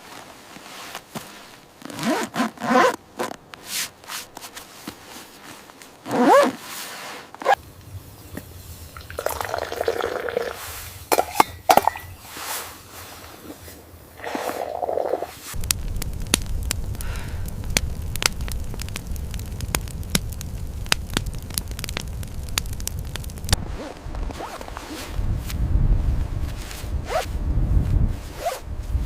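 A run of irregular scrapes and sharp clicks, with a low steady rumble setting in partway through and growing louder about halfway.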